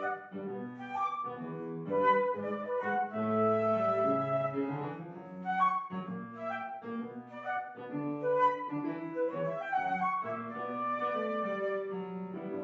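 Flute playing a quick melody over piano accompaniment.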